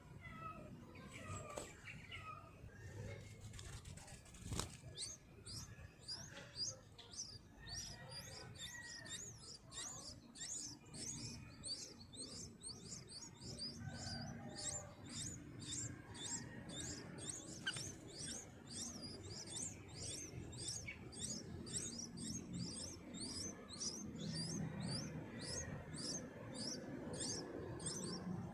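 A bird chirping in a fast, even series of short high-pitched notes, about two or three a second, that starts about five seconds in. Softer, lower calls come before it.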